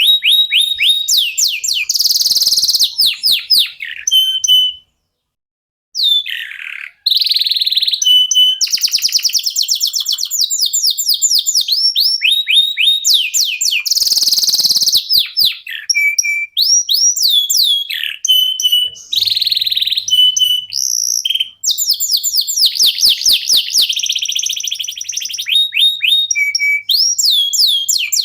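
Domestic canaries singing: long, rapid trills of quick falling whistles repeated many times a second, mixed with sustained buzzy rolls and short notes, with a brief pause about five seconds in.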